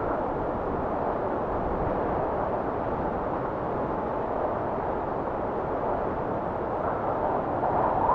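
Blizzard wind blowing steadily: an even rushing noise, with a gust swelling near the end.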